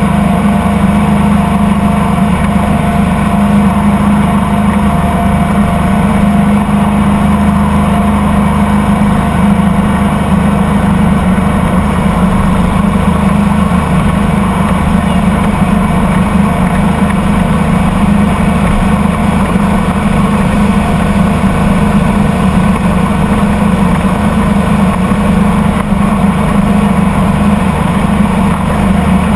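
Boat engine running steadily under way, loud and unchanging.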